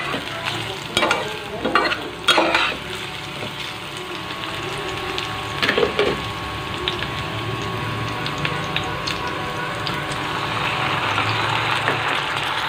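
Sliced onions sizzling in hot oil in a pot, stirred with a wooden spatula that scrapes and knocks against the pot a few times in the first half. The sizzling grows louder near the end.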